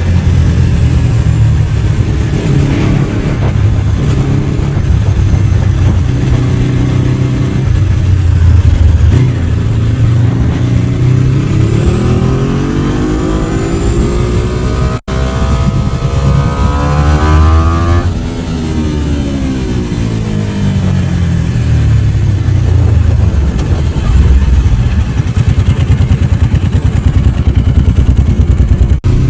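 Ducati 749 sportbike's L-twin engine running while being ridden, its pitch rising under acceleration around the middle, then falling away as it eases off. The sound drops out for an instant about halfway.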